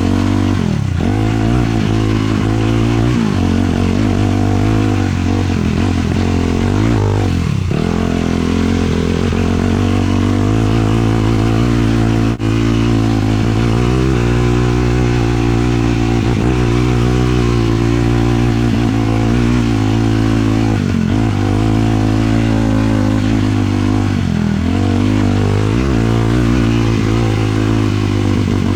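Single-cylinder 450 sport ATV engine running hard at steady revs under way. A few times the pitch dips briefly and climbs back as the throttle is eased and reopened.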